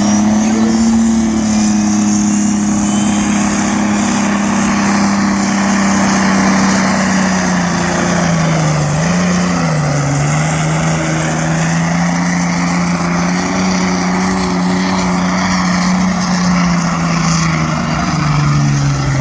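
A competition pulling tractor's engine running flat out under load as it hauls the weighted sledge down the track. It is a steady high-revving note that dips briefly about nine seconds in and drops in pitch near the end.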